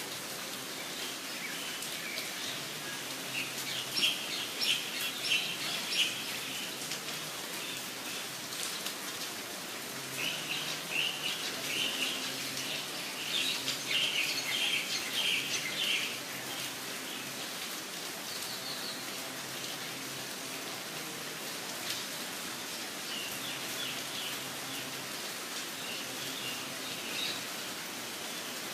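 Steady rain falling, with birds singing over it in bursts of high chirping twice in the first half and more faintly near the end.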